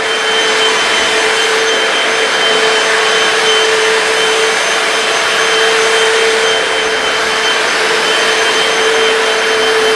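Hoover PowerDash hard floor cleaner running steadily, its suction motor giving a constant whine over a rushing airflow noise.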